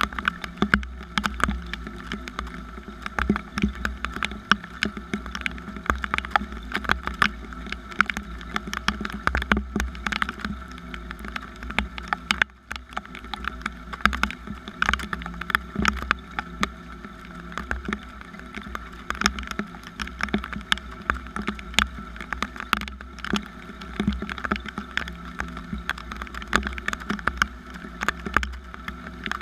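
Rain falling, with many separate drops ticking sharply and irregularly on a hard surface close by, over a steady low rumble.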